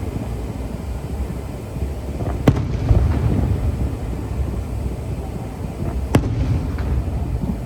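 Fireworks bursting: two sharp cracks, the first about two and a half seconds in and the second about six seconds in, over a steady low rumble.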